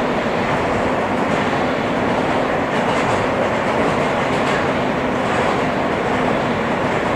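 R160 subway car running along the track, heard from inside the car: a steady rumble of wheels on rail with a faint steady hum underneath.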